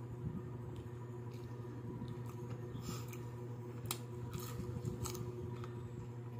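Chewing and crunching on crispy fried chicken neck, with several sharp crunches between about three and five seconds in, over a steady low hum.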